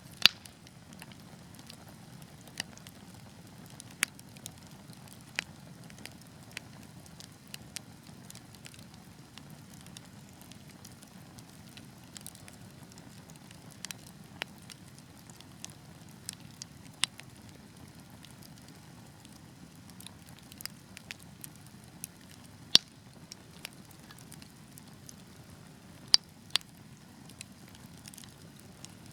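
Wood fire burning: a steady low rumble with irregular sharp crackles and pops from the logs, a few of them much louder than the rest, shortly after the start, and again near the end.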